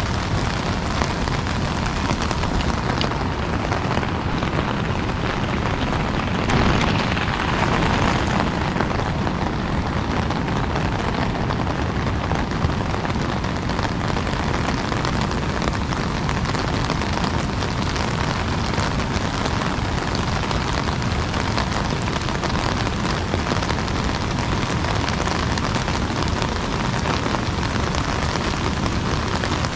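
Heavy rain pattering on an umbrella, a dense steady hiss, with a brief louder swell about seven seconds in.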